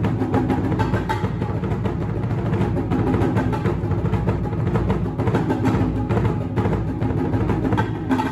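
Marimba music: a soloist playing fast, dense mallet strokes on a marimba with a large marimba ensemble.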